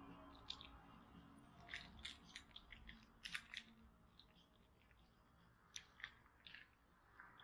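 Wood fire crackling faintly: scattered snaps and pops of burning wood, a run of them a couple of seconds in and a few more about six seconds in.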